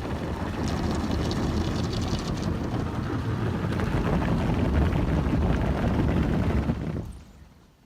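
Belanger FreeStyler automatic car wash working over the car, heard from inside the cabin: a steady rush and rumble that dies away about seven seconds in.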